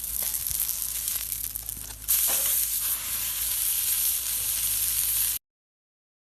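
Food frying in a pan, a steady sizzle that grows louder about two seconds in and then cuts off abruptly.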